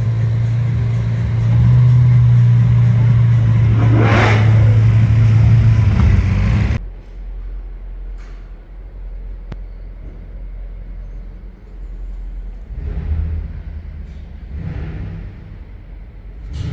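Lamborghini Aventador's V12 engine held at steady high revs, a loud drone that steps up in pitch about two seconds in. It cuts off abruptly to quieter engine sound with a couple of short swells of revs near the end.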